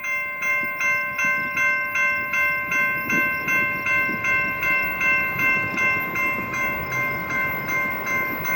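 Railroad grade-crossing bell ringing steadily at about two and a half strikes a second. A train rumbles low underneath.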